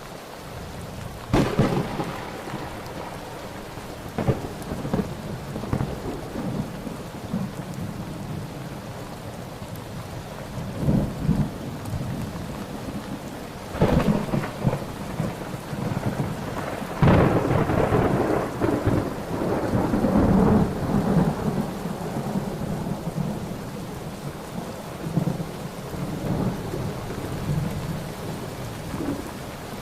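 Thunderstorm: steady rain with repeated thunder, sharp cracks about a second in and several more later, and a long rolling rumble around the middle.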